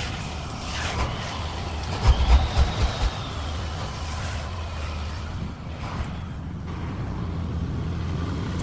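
A truck's engine running steadily, with a few low thumps about two seconds in.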